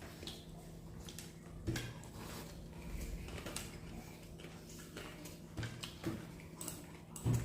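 Quiet eating sounds: soft chewing and scattered light clicks, with a few soft knocks of hands or dishes against plates, over a low steady hum.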